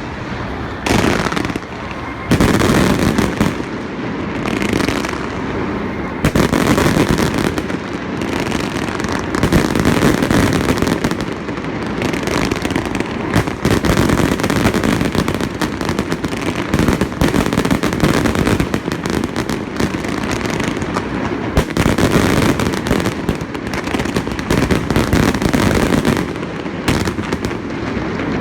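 Fireworks display: a dense, continuous barrage of aerial shell bursts and crackling, the bangs overlapping with no real pause.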